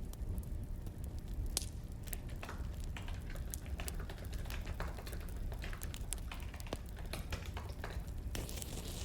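Wood fire crackling: irregular sharp pops and snaps over a steady low rumble, mixed with keyboard typing clicks.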